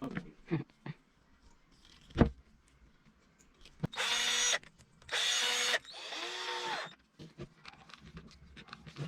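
Power drill run in three short bursts of motor whine, the last one winding down in pitch as the trigger is released, with wooden knocks and a loud knock before it, while working pine wood for a lamp.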